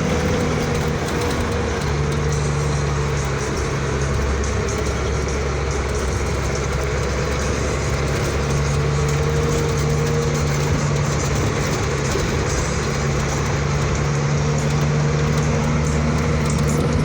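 Truck engine running steadily under way, a constant low drone with road noise.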